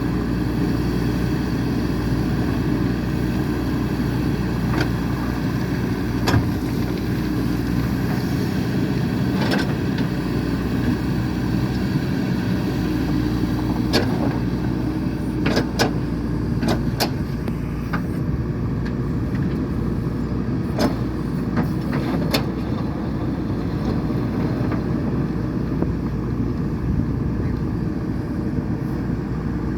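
JCB 3DX backhoe loader's diesel engine running steadily as the machine works, with scattered sharp clanks, several in quick succession just past the middle.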